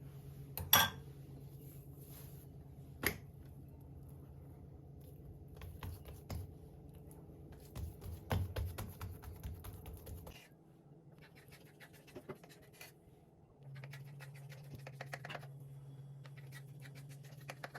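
Kitchen handling sounds: sharp clicks and knocks, the loudest about a second in, and stretches of scratching and light tapping, over a steady low hum that stops about ten seconds in and comes back near fourteen seconds.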